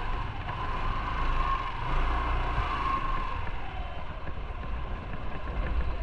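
Motorcycle on the move: engine rumble with wind rushing over the microphone. A steady high whine fades out about three to four seconds in.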